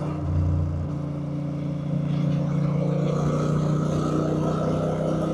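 Honda Rebel 1100's parallel-twin engine running at a steady pitch while the motorcycle is ridden.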